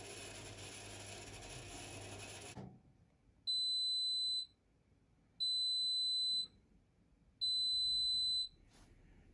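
Privileg 5020 washing machine running, then falling silent about two and a half seconds in, followed by its signal buzzer sounding three times: high steady beeps about a second long, two seconds apart, the machine's end-of-programme signal.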